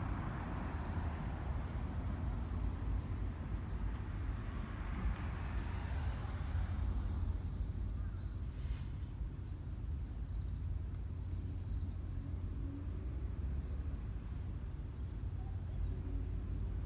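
Steady low outdoor rumble of a field recording, with a faint hiss that fades out about seven seconds in and a thin high whine that keeps breaking off and returning.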